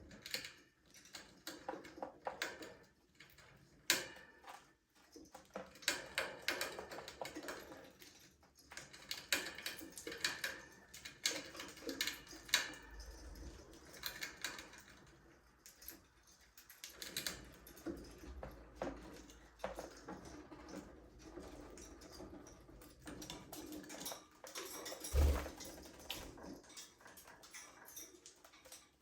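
Budgerigars chirping and chattering in quick, irregular bursts, mixed with scattered clicks and taps. One louder thump about 25 seconds in.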